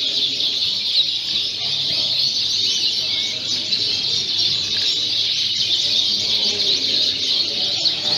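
Many Fife canaries chirping and singing at once: a dense, continuous chorus of high, quick chirps with no pauses.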